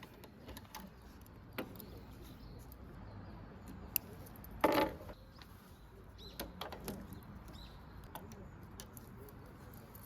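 Scattered small clicks and knocks over a faint background, with one louder short clatter about halfway through.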